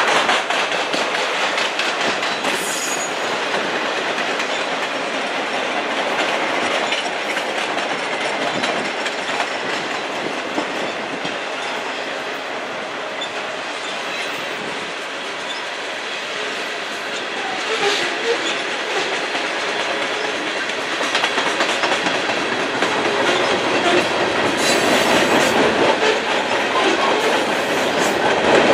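Freight cars of a long mixed freight train rolling past, steel wheels clattering over the rail joints in a continuous clickety-clack. In the second half a wavering squeal from the wheels rises and falls over the rumble.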